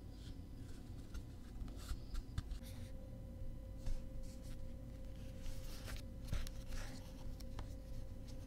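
Hands handling the cardboard and paper parts of a CD box set: scattered light rustles, scrapes and small clicks.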